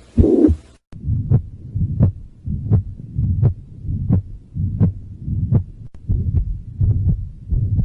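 Heartbeat heard through a stethoscope, about one and a half beats a second, each beat a pair of dull thuds with a rushing murmur between them: the systolic murmur of mitral regurgitation. The recording changes abruptly about a second in.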